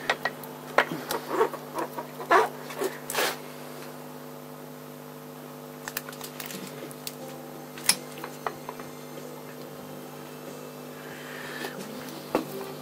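Handling noise in a workshop: a quick run of sharp clicks and knocks in the first few seconds, then a few single clicks, over a steady low hum.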